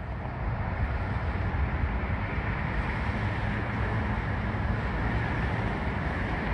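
Steady low rumble with a hiss that builds slightly from a couple of seconds in, as a train approaches in the distance.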